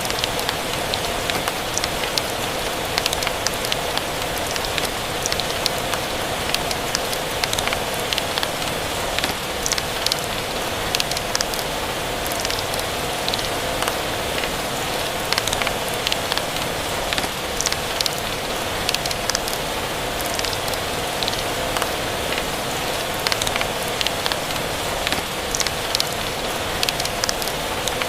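Steady rain pattering, mixed with a wood fire crackling in irregular sharp pops and snaps.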